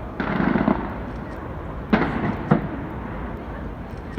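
Aerial fireworks shells bursting: a rumbling burst just after the start, then two sharp bangs about half a second apart around the middle.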